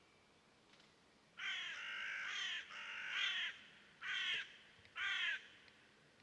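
A crow cawing: four harsh, hoarse calls, two drawn-out ones followed by two short ones.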